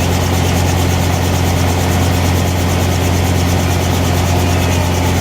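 Helicopter's engine and rotors running, a loud, steady drone with a strong low hum.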